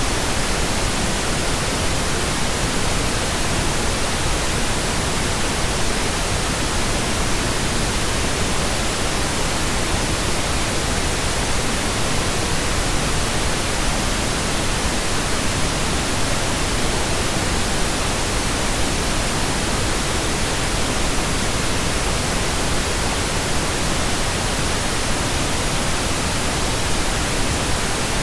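Steady pink noise generated in software: an even, unchanging hiss over the whole range of pitch, heavier in the low end than white noise.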